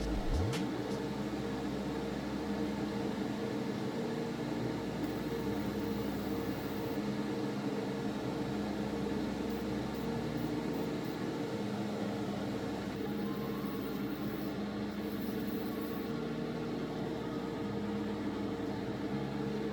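Airbrush compressor running with a steady hum, and a high hiss of air spraying through a 0.2 mm airbrush twice, about five and thirteen seconds in.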